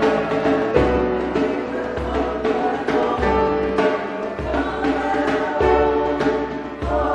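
A choir singing a hymn-like piece with instrumental accompaniment, a low bass note sounding about once a second under sustained chords.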